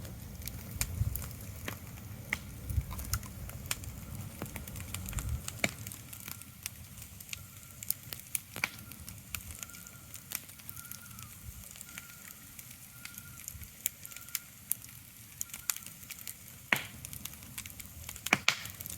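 Ambient sleep soundscape: scattered sharp crackles and clicks over a soft hiss, with a low rumble that fades out about five seconds in and a faint broken high note in the middle.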